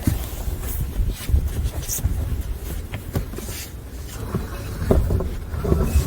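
Wind rumbling unevenly on the microphone, with a few short scrapes or crunches.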